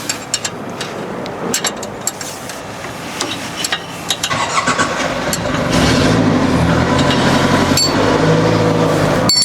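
Engine noise comes in about halfway through over a background of noise and clicks, then runs steadily and louder to the end.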